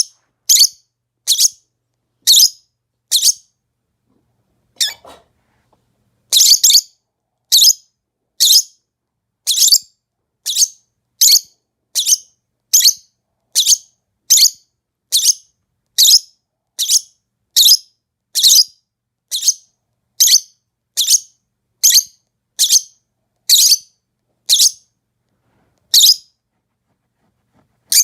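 Lovebird giving short, shrill, high-pitched chirps, one about every second, with a pause of a couple of seconds near the start.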